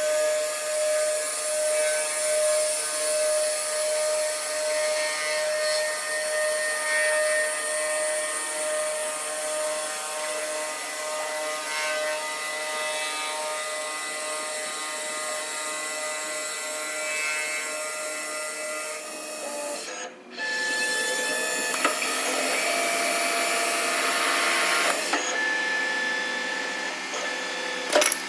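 Double-axis CNC wood lathe turning two wood blanks at once. The cutters make a steady hiss, with a steady machine whine running under it. The sound drops out briefly about twenty seconds in.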